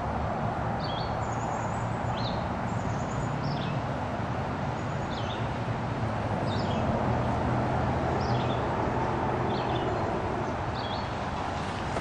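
A songbird repeating a short, high, down-slurred call about every second and a half over a steady rushing background noise.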